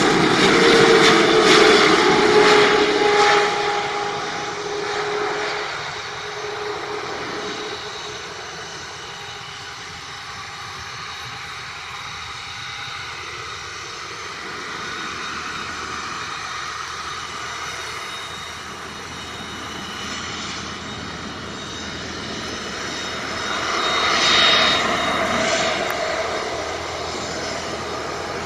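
Boeing 777-300ER's GE90 turbofans passing low overhead on landing approach. It is loud at first, with a whining tone falling in pitch over the first few seconds, then fades to a steady distant roar. There is a brief swell near the end.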